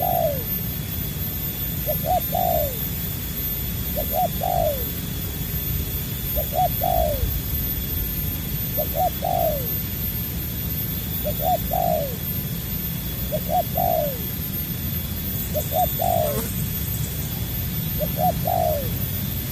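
Spotted dove (tekukur) cooing, the same short phrase of a few notes repeated about every two seconds, over a steady low rumble.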